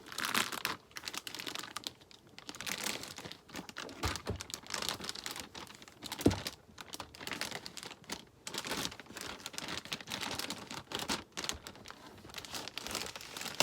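A cardboard parcel box and its packing being handled and opened by hand: irregular rustling and scraping, with one sharp knock about six seconds in.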